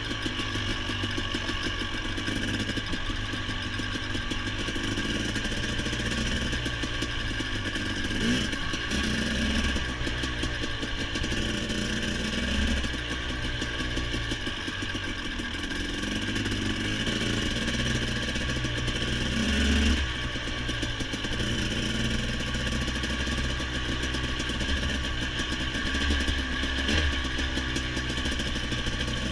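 Motorcycle engine running steadily under way, with brief rises in revs a few times.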